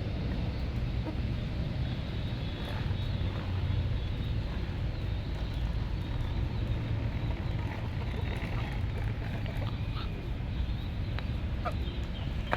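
Domestic pigeons calling among themselves over a steady low rumble.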